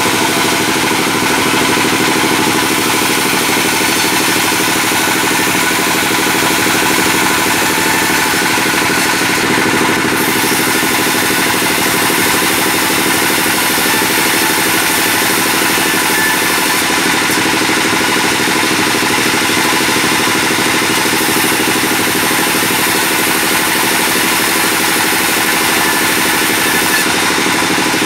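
Sawmill bandsaw with a new blade running, a loud, steady mechanical drone with a hiss over it that holds without a break.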